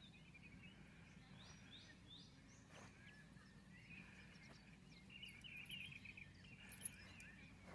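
Faint birdsong: a few short chirps, then a warbling phrase about two-thirds of the way through, over a faint low hum.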